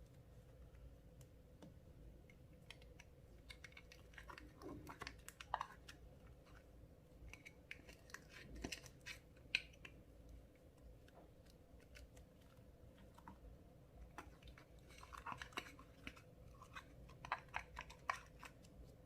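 Clear slime being squeezed and folded by hand, giving clusters of small sticky clicks and crackles with quiet gaps between them.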